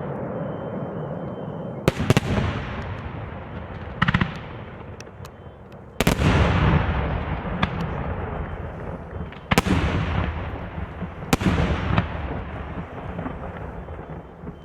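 Fireworks shells bursting overhead: about six sharp bangs a second or two apart, each followed by a long echoing rumble that dies away.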